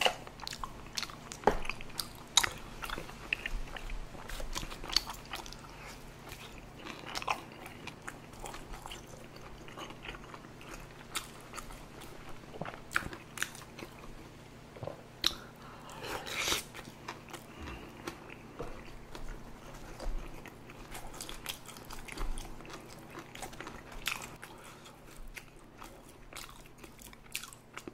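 Close-miked eating sounds: chewing and biting tteokbokki rice cakes in spicy sauce, a fairly quiet, irregular run of small sharp mouth clicks and smacks.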